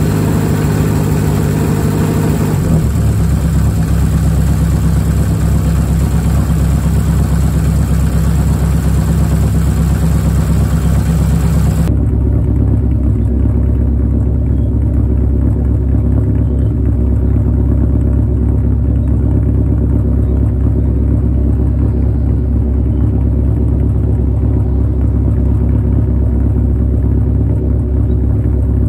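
Nissan S13 Silvia's naturally aspirated 2.2-litre four-cylinder with individual throttle bodies and a straight-pipe exhaust, idling steadily. About halfway through it turns suddenly duller, heard from behind the car rather than at the open engine bay.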